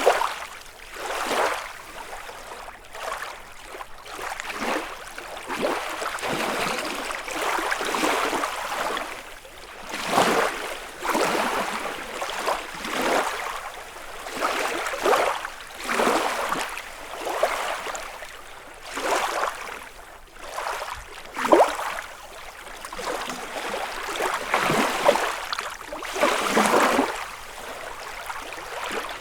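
Small lake waves lapping and washing onto the shore, one surge every second or two, with a sharper splash about two thirds of the way through.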